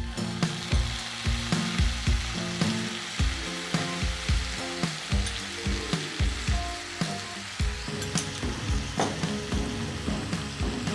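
Food frying in a pan with a steady sizzle, over background music with a regular beat.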